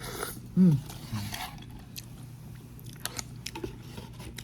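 A person eating instant cup noodles: chewing with scattered small mouth and utensil clicks. About half a second in comes one short, loud voiced sound that falls in pitch.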